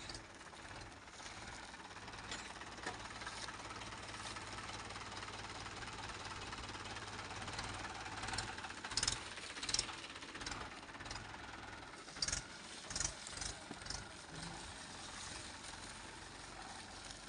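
Mahindra 575 DI tractor's diesel engine running steadily, with a few louder knocks and rattles about halfway through and again a few seconds later.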